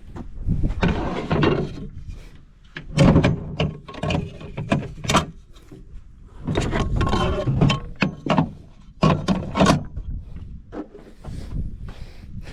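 Irregular clunks, scrapes and clatter of plastic and metal parts being handled as corn seed plates are fitted into a planter's seed meters, in bursts with short pauses between.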